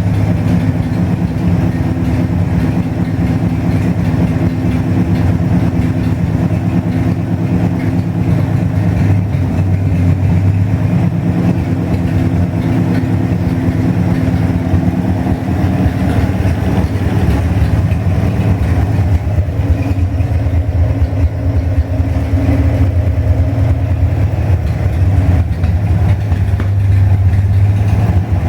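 Chevrolet 235 straight-six engine idling steadily on its first start-up, its note wavering briefly around the middle before settling back.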